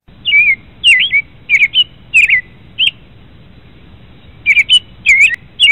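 A small songbird chirping: quick, rising and falling chirps in short groups of two or three, several a second, with a pause of about a second and a half around the middle.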